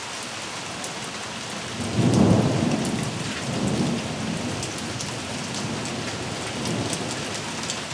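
Steady rain falling and pattering, with scattered sharp drop ticks. About two seconds in a low rumble swells and fades away over the next few seconds.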